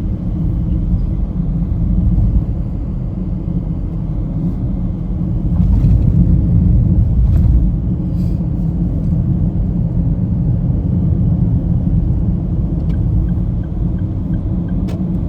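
Car cabin rumble while driving: steady low engine and road noise, with a few faint knocks.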